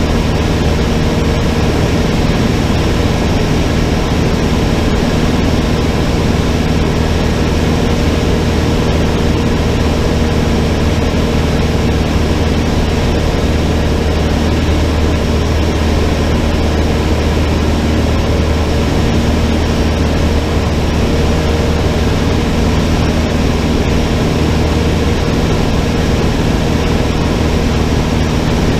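Cessna 152's four-cylinder Lycoming engine and propeller running at a steady, unchanging drone.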